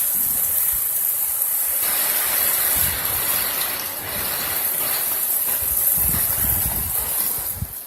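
Heavy rain pouring down in a thunderstorm: a steady, dense hiss.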